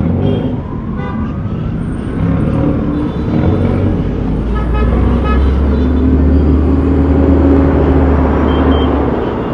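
City street traffic: a steady wash of road noise with a vehicle's engine drone passing close, building to its loudest about three-quarters through and easing off near the end. A few short high-pitched tones sound about halfway through.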